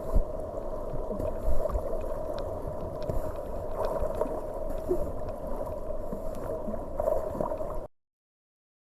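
Creek rapids rushing steadily, with scattered low thumps and small knocks; the sound cuts off abruptly near the end.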